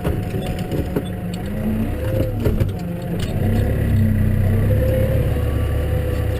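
Case tractor engine running while snow ploughing, its pitch dipping and recovering twice as the load changes. A few sharp knocks sound about two and a half seconds in.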